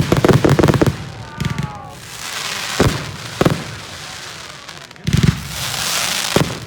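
Display fireworks going off: a rapid volley of bangs, a few short whistles, then single bangs and one big burst about five seconds in that trails off in a crackling hiss.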